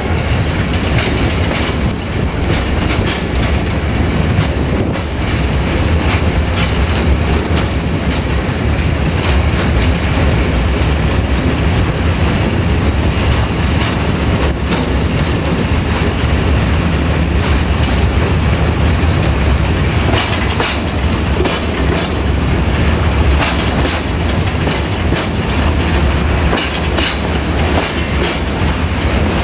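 Ballast train hauled by an LDH diesel-hydraulic locomotive rolling along the track: a steady low rumble with the clickety-clack of wheels over rail joints.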